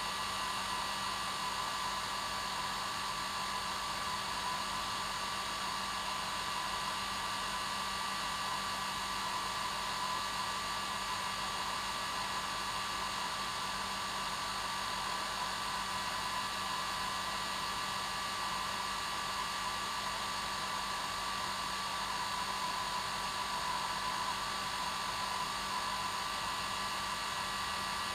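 Hair dryer running steadily at its normal setting: an even rush of air with a steady motor hum and whine, unchanging throughout.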